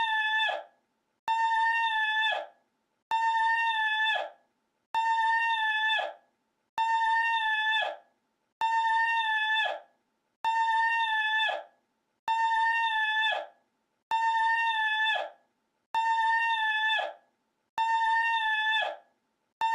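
A single high, held cry, pitched like a steady whistle-like tone, that drops away at its end. The identical cry repeats as a loop about every two seconds, eleven times or so, with brief silences between.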